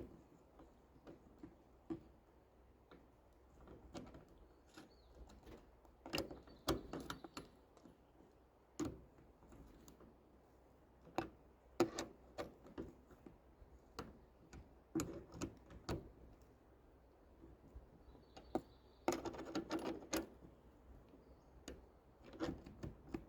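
Hand tools and metal hardware being handled while fitting a nut and bolt: irregular clicks, clinks and knocks, with a quick run of clicks about nineteen seconds in.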